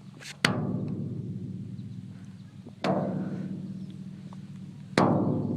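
A large old metal drum being struck three times; each hit rings out with a long, low, droning hum that slowly fades.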